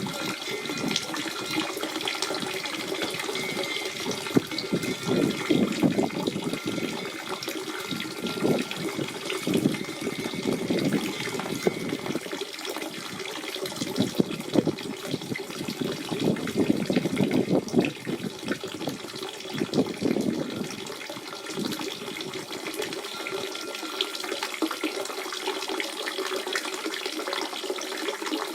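Natural spring water running and splashing in a steady, gurgling flow.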